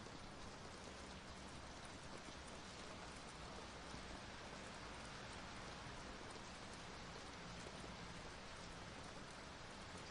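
Rain falling steadily, a faint, even hiss of drops with no distinct thunderclap.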